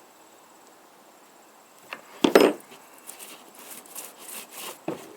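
Hand tools working on the Echo CS306 chainsaw's bar: a loud clunk about two seconds in, then a run of scraping, rasping strokes as the two bar nuts are tightened down, and a soft thump at the end.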